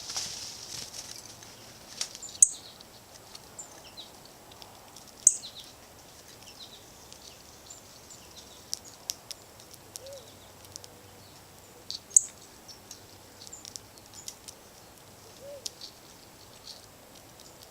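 Small songbirds at a feeder giving scattered short, high chip calls, with three louder sharp chips among softer ones.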